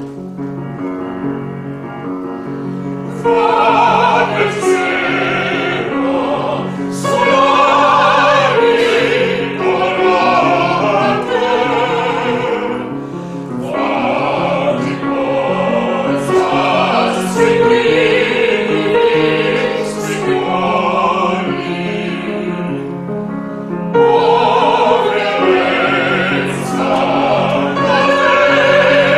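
Music: classical-style singing with vibrato over accompaniment. The voice comes in about three seconds in and holds long notes.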